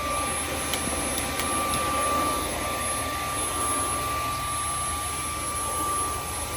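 A Dyson vacuum with a dog grooming attachment runs steadily while it is drawn through a shedding German Shepherd's coat, sucking up loose undercoat. It makes a steady high whine over an even rushing of air, with a couple of faint clicks near the start.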